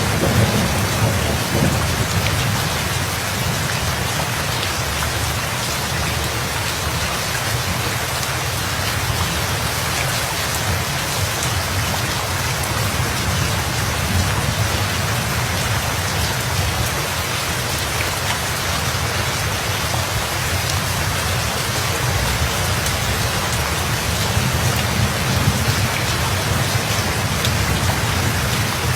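Steady heavy rain pattering on surfaces, with a low rumble of thunder that is strongest in the first couple of seconds and then fades to a faint underlying rumble.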